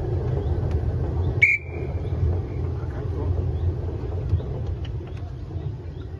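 Narrow-gauge train running slowly over the track with a low rumble that fades as it draws towards a stop. About a second and a half in, a single high whistle note sounds for about a second.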